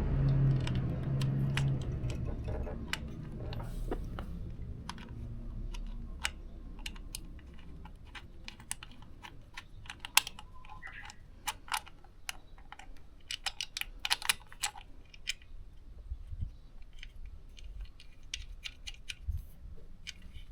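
A small single-cylinder motorcycle engine running, fading out within the first two seconds, then scattered light clicks and taps of small hard objects being handled.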